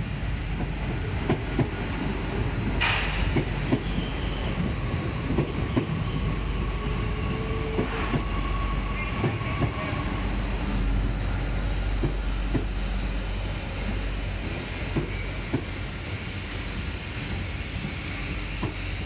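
SNCF AGC diesel multiple unit pulling into a station and slowing past. It runs with a steady low rumble and many wheel clicks over the rail joints, a short hiss about three seconds in, and thin high brake squeal in the later part.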